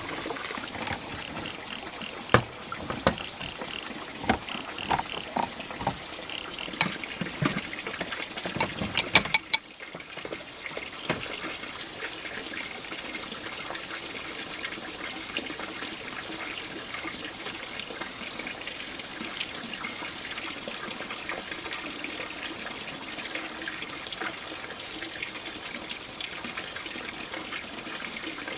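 Water trickling steadily, with a string of sharp knocks and ringing clinks through the first ten seconds or so.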